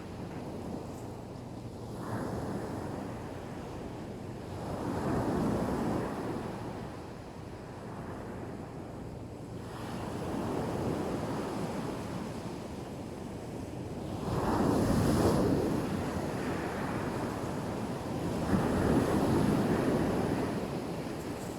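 Sea waves breaking and washing on the shore, swelling in surges every few seconds, the biggest about 15 and 19 seconds in. Wind buffets the microphone.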